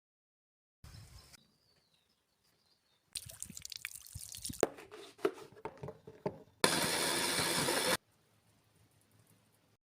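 A run of light knocks and clinks, a few of them ringing briefly, then a water tap running steadily for about a second and a half and cut off abruptly.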